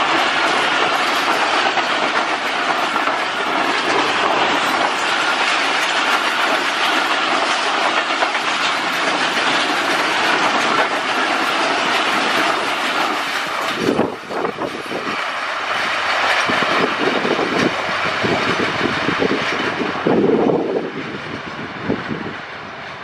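Express train's passenger coaches passing close at speed: a loud, steady rush of wheel and rail noise. About halfway through it turns into a rhythmic clickety-clack of wheels over rail joints, and it fades down near the end.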